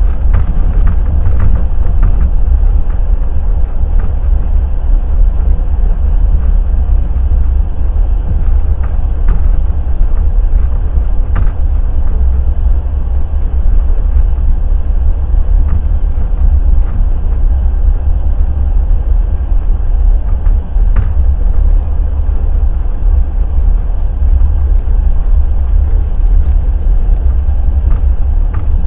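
Passenger express train running along the line: a loud, steady rumble of wheels on rails, with scattered faint clicks.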